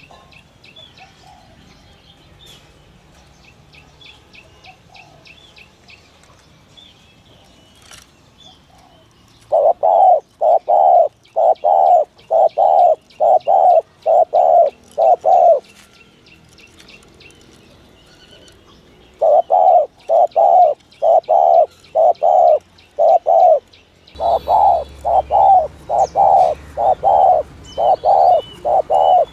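Spotted dove cooing in quick, evenly spaced runs of short low coos, about two a second, in three bouts separated by short pauses, the first starting about a third of the way in. Faint high chirps of small birds sound before the cooing begins.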